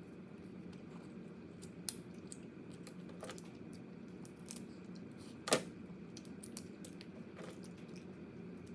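Crab shell being cracked and picked apart by hand and teeth: a scatter of small clicks and crackles, with a sharp crack about five and a half seconds in.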